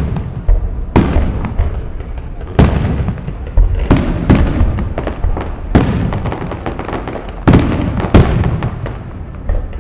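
Aerial firework shells bursting as peonies, crossettes and glitter: about nine sharp bangs at uneven spacing, some in quick pairs, over a continuous crackle and rumble.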